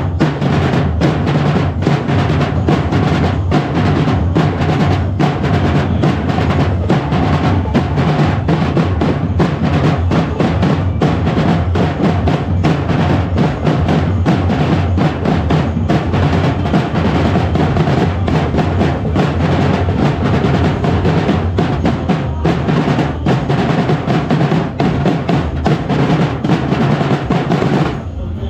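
Loud drum-driven percussion music with rapid, dense snare and bass drum beats and drum rolls, keeping up a driving rhythm. It breaks off abruptly near the end.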